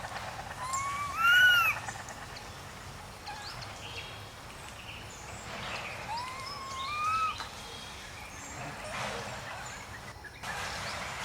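Young monkey giving two drawn-out, arching coo calls, about a second in and again around six seconds in, over a steady outdoor background with faint chirps.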